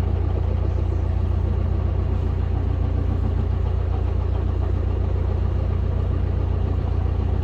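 Narrowboat's diesel engine running steadily at cruising speed, a constant low drone.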